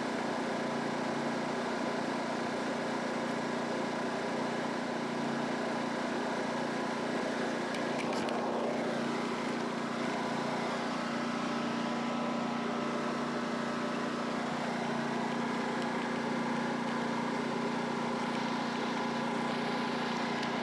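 Pressure washer engine running steadily under a constant hiss, with a brief click about eight seconds in.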